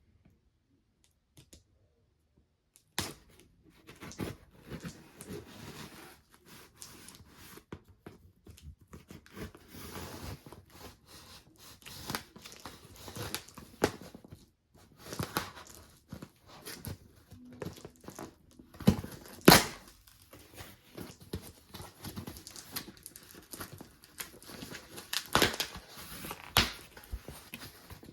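Cardboard ceiling-fan packaging being opened by hand: tearing, crinkling and rustling with scattered knocks. It starts after about three seconds of near silence, with a few louder sharp rips or knocks about two-thirds of the way in and near the end.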